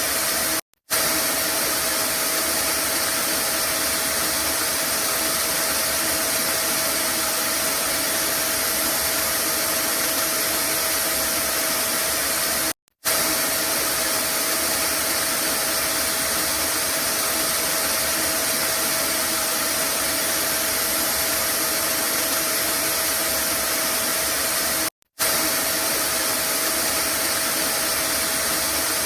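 Vacuum cleaner running steadily, a constant rushing hiss with a steady whine. It cuts out for an instant three times, about every twelve seconds.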